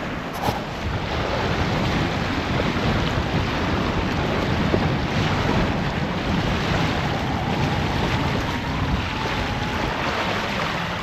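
Steady rushing wind buffeting the microphone, dense and strongest in the low end.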